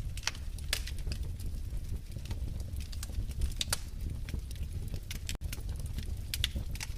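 Wood fire crackling in a fireplace: a steady low rumble of the flames with irregular sharp pops and snaps, and a split-second dropout about five seconds in.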